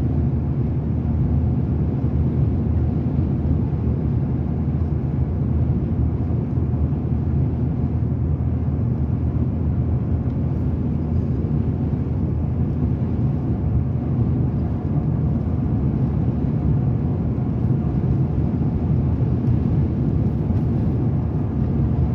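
Steady low rumble of a moving vehicle: road and engine noise, unchanging throughout.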